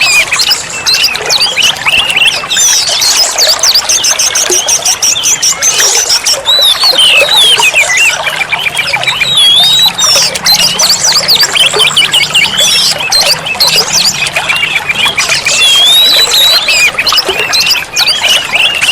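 Oriental magpie-robin (kacer) singing without pause: a loud, varied stream of whistles, slurred glides and fast trills, with one rising whistled phrase recurring several times.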